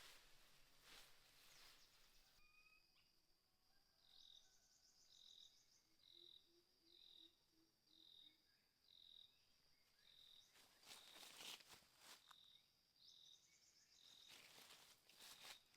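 Faint forest ambience of insects and frogs: a steady high drone, with a short high call repeating about once a second, and a few brief rustling noises.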